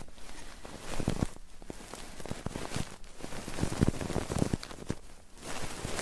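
Close-miked ASMR ear-cleaning and ear-rubbing sounds at a microphone: dense crackly scratching and rustling, with irregular clicks and soft low thumps.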